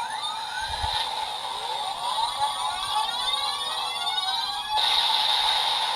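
Evolt Driver transformation-belt toy playing its electronic attack sound effect through its small speaker. A steady electronic tone runs under many sweeping rising and falling whooshes, and a louder held buzzing tone starts near the end.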